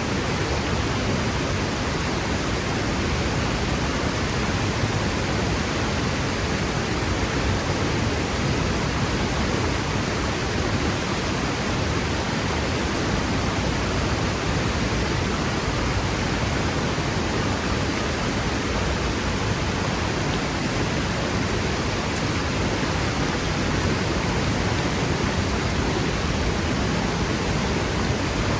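Franklin Falls waterfall crashing down a rock cliff: a loud, steady rush of falling water.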